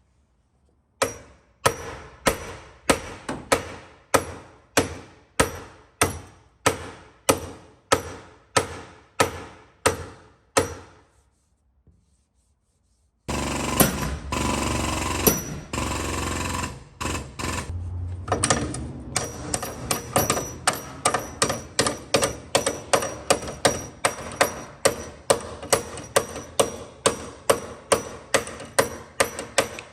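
Hammer striking sheet metal in a steady rhythm, about two blows a second, with a ringing metallic clang on each. This is bodywork straightening of damaged front-end metal. After a short pause, a steady mechanical noise starts up for a few seconds, and the hammering resumes over it.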